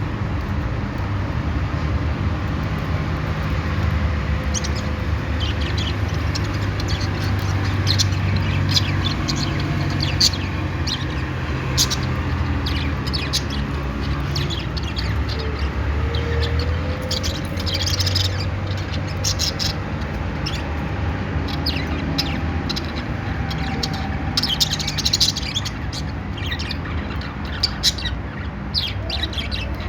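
Budgerigars chirping and chattering in short, high, quick calls. The calls are sparse at first and come in thicker bunches later on, over a steady low rumble.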